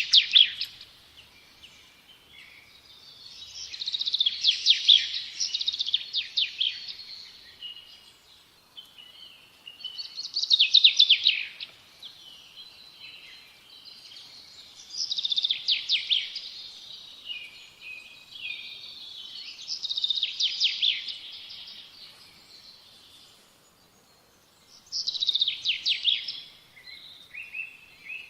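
A songbird singing the same short phrase over and over, each a quick run of high notes ending in a trill, repeated about every five seconds with pauses between.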